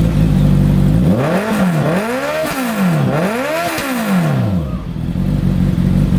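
Motorcycle engine running through an SC Project aftermarket muffler: idling, then revved three times in quick succession about a second in, each rev rising and falling, before settling back to idle.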